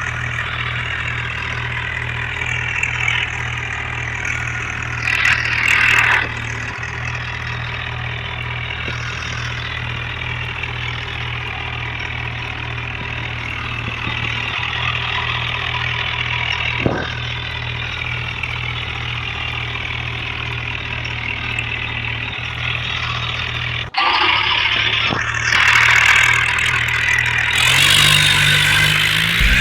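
Tractor diesel engine running steadily with an even low throb. About three-quarters of the way through it cuts off abruptly and comes back louder.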